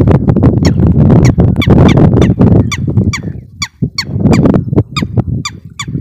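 A bird's shrill, squeaky calls, each short and falling in pitch, repeated about three times a second over heavy wind buffeting on the microphone.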